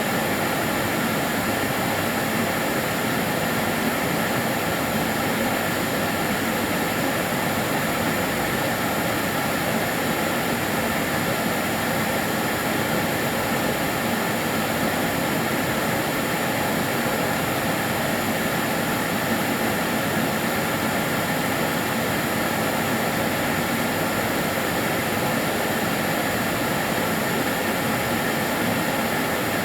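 Karcher DS 6 Premium water-filter vacuum cleaner running steadily: an even rush of air with a thin, steady high whine over it.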